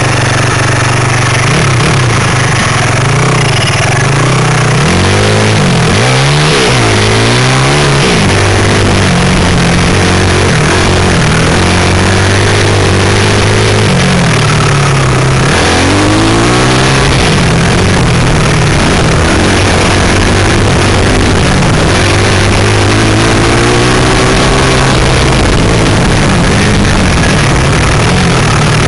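A 160 cc pit bike's single-cylinder four-stroke engine heard from on board, its pitch climbing and falling again and again as the throttle is opened and shut through a lap. Quick bursts of revs come a few seconds in, again past the middle, and once more later on.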